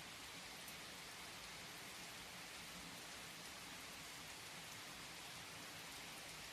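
Steady rain falling: a soft, even hiss of drops with a few faint ticks and no break.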